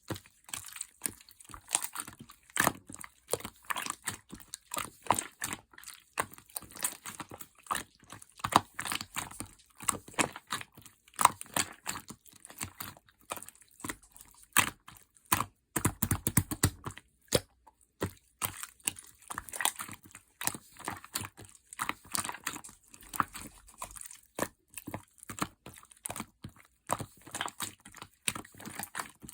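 Slime being squished, pressed and stretched by hand, giving dense crackling clicks and small pops, with a brief deeper squelch about halfway through.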